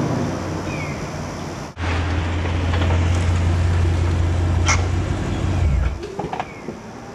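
2011 Mustang GT's 5.0 V8 through a Cherry Bomb Pro axle-back exhaust, dying down from a rev, then after a brief break running at a steady deep idle. The drone stops suddenly about six seconds in, followed by a few light clicks.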